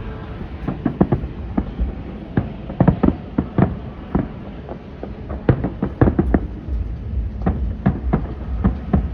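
Fireworks bursting: a rapid, irregular string of sharp bangs and crackles over a low rumble.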